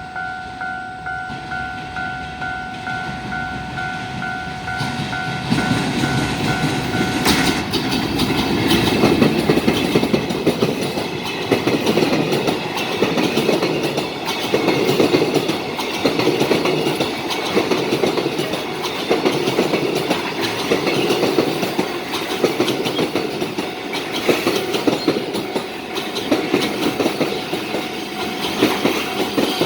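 A JR Freight EF510 'Red Thunder' electric locomotive and its container wagons roll past, the wheels clattering in a regular rhythm of swells. Before the train's noise builds, a pulsing ringing tone sounds, then stops about seven seconds in.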